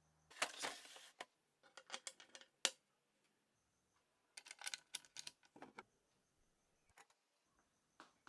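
Irregular sharp clicks and short rustling noises in two bursts, with a few single clicks near the end. A low hum stops just after the start.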